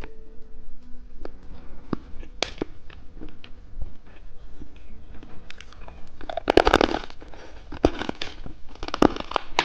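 Close-up clicks, taps and crackling from candy and its plastic packaging being handled, with louder bursts of crackling about six and a half and nine seconds in.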